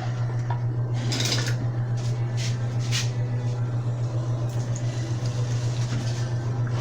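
Small metal bicycle hub parts clinking and rattling, with a few light clicks about a second in and again around two and three seconds, as they are washed in gasoline. A steady low hum runs underneath.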